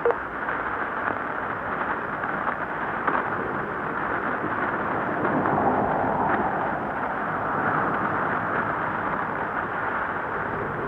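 Steady hiss and rush of radio static, the kind heard from a receiver tuned between stations, swelling slightly midway.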